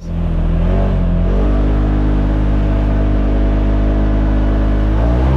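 Polaris RZR Pro XP side-by-side's engine running hard under power, a loud steady drone whose pitch shifts about a second in and rises near the end.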